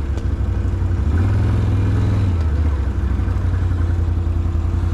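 Off-road vehicle's engine running at low speed on a trail, its pitch rising a little about a second in and dropping back about a second later.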